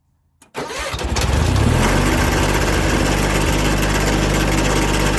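John Deere 317 garden tractor engine starting: a click, then it catches about half a second in, revs up over the next second and settles into a steady run.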